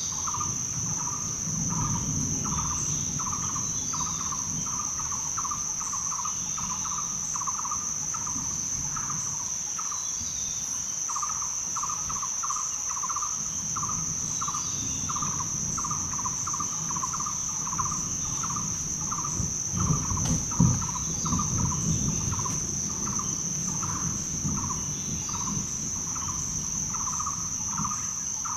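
Rainforest ambience: a steady high-pitched insect drone with a mid-pitched call repeated about twice a second, and scattered faint bird chirps. A low rumble rises underneath and is loudest about two-thirds of the way through.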